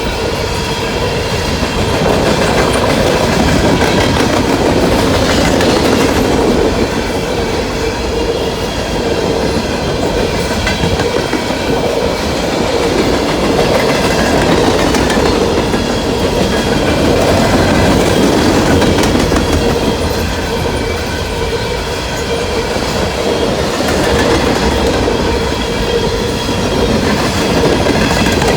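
Long freight train of coal cars rolling past at speed: a steady rumble and clickety-clack of wheels over the rail joints, with a steady whining tone running through it.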